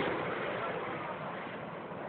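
Jet noise from Snowbirds CT-114 Tutor aircraft after a pass: a steady rushing that slowly dies away.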